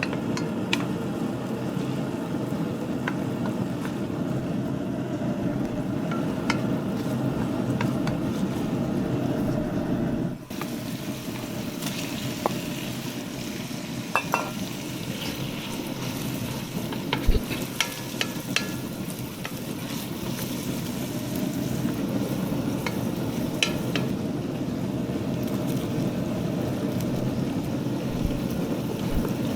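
Food sizzling in a pan with scattered light clicks and clinks of a utensil against cookware. The sizzle drops out briefly about ten seconds in, then resumes.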